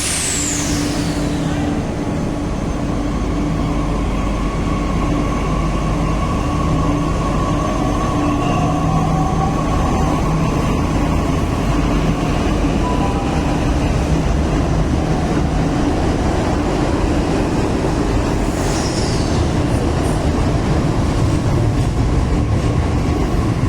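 Delhi Metro train running: a steady rumble with a faint electric whine, and a short falling hiss right at the start and again about 19 seconds in.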